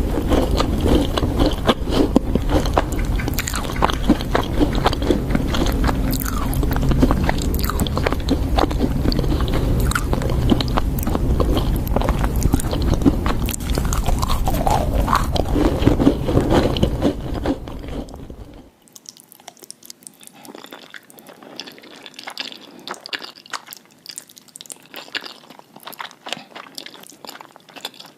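Close-miked eating sounds: biting into and chewing crunchy food, with dense crisp crackles. About two-thirds of the way through, the sound drops suddenly to a quieter, thinner stretch of chewing.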